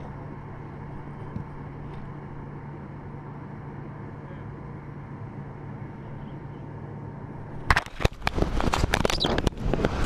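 A steady low hum, then, near the end, a run of loud knocks and thumps against the camera with wind buffeting the microphone as the GoPro is jostled and moved.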